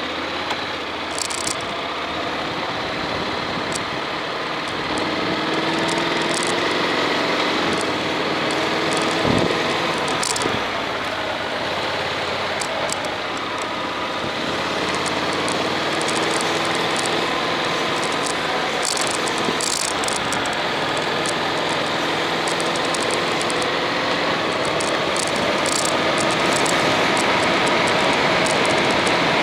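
Honda X-ADV's parallel-twin engine running on the move, its pitch rising and falling with the throttle, under a steady rush of wind and road noise.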